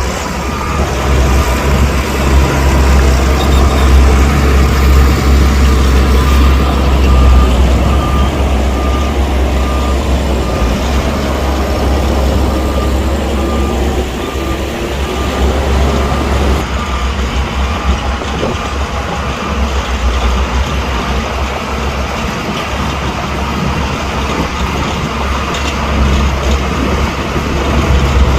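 Heavy diesel earthmoving machinery running under load with a deep steady rumble, while a reversing alarm beeps at a steady even rate through about the first half.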